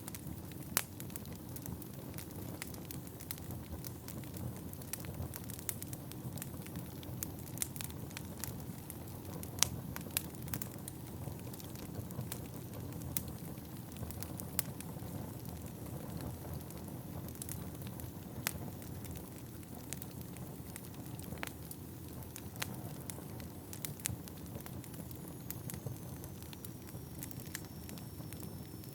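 Wood burning in a fireplace: a steady low rush of flames with frequent sharp, irregular crackles and pops from the burning logs.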